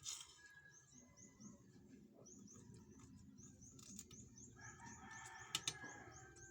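Faint rooster crowing in the background, drawn out from about four and a half seconds in, over a quick, even series of high chirps. A few sharp clicks at the start and about five and a half seconds in.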